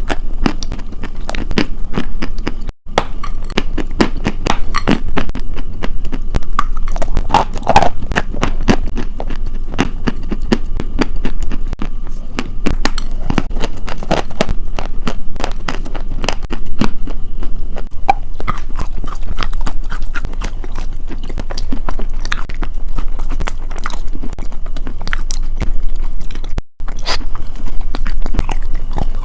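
Close-miked chewing and biting of a crunchy food: dense, continuous crackling crunches, broken twice by a split-second silent gap.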